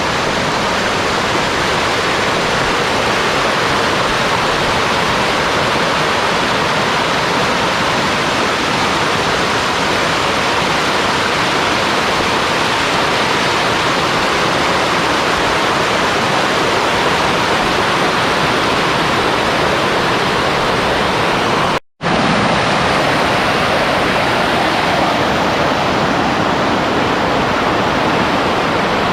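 Waterfall and stream water rushing steadily and loudly, an even wash of noise with no other sound standing out. It drops out for an instant about three quarters of the way through.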